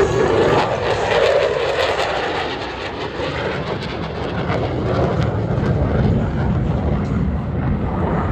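F-16 Fighting Falcon's jet engine running with a steady, loud roar, swelling a little in the first couple of seconds.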